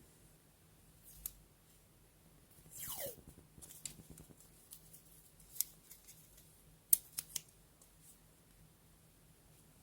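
Scissors cutting paper: a few separate snips and sharp clicks, with one longer cut about three seconds in that falls in pitch.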